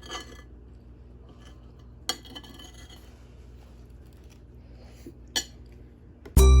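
Three sharp clicks or clinks, like a dish or utensils being handled, over a low steady hum. Cheerful jingling music starts suddenly near the end.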